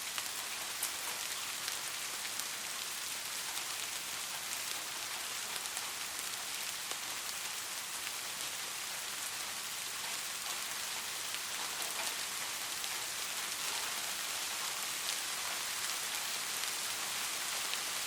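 Light rain falling steadily, a soft even hiss scattered with the small ticks of individual drops landing on a surface.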